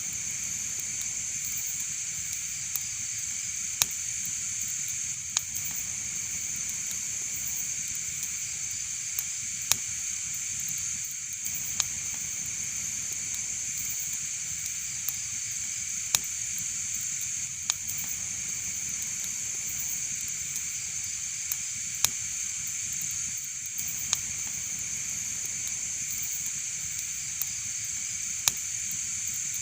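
Wood fire burning in a fireplace: a steady hiss with sharp crackling pops every second or few.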